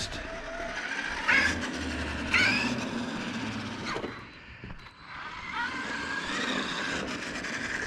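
Traxxas E-Revo 2.0 electric RC truck driven on a test run after its differential repair. Its motor whine rises in two short bursts of throttle, then holds steadier after a brief lull.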